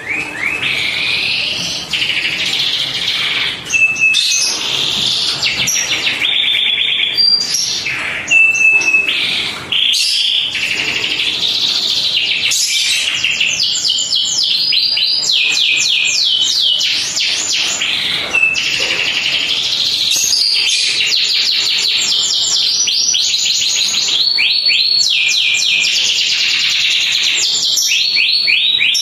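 Domestic canary in full song: a long, loud, continuous song of rapid trills and fast series of repeated sweeping notes, mixed with short steady whistles, broken only by a few brief pauses in the first ten seconds.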